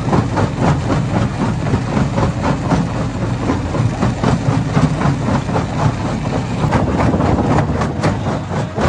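Hammer stone crusher running and breaking rocks: a loud, continuous clatter of rock knocking on rock and metal, several knocks a second, over a steady low machine rumble.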